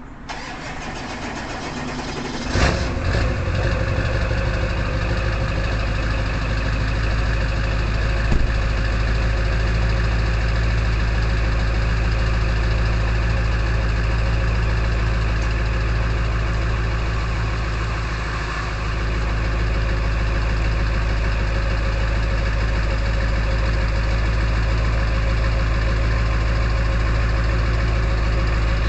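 1999 Ford F-250's 7.3 L Power Stroke turbo-diesel V8 through a straight-pipe exhaust, cranking for about two and a half seconds, then catching with a loud burst on a cold start. After that it settles into a steady, rattly cold high idle.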